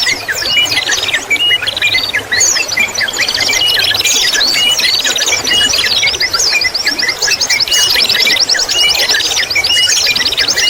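Several songbirds singing at once: a dense mix of chirps, whistled sweeps and fast repeated trills, over a steady trickle of water.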